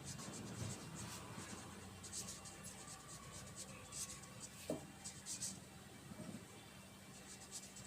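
Faint scratching of handwriting strokes as the next step of a calculation is written out, over a low steady hum.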